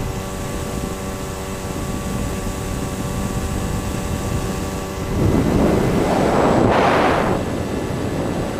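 Electric motors of a Finwing Air Titan RC plane in flight, running at a steady pitch under a rush of wind noise on the microphone. About five seconds in, a loud gust of wind noise swells for about two seconds and partly covers the motor tone.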